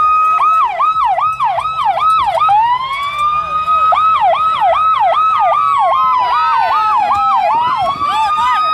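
Police car siren blaring, alternating between a long rising wail and a fast yelp of about three pitch sweeps a second.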